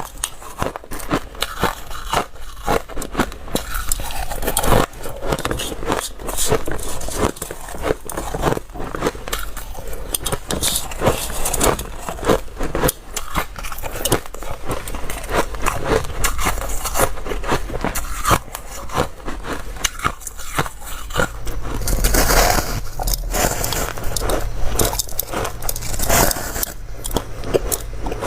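Ice being bitten and chewed close to the microphone: a dense, irregular run of crisp crunches and crackles. About 21 seconds in the sound changes, with a low steady hum under the crunching.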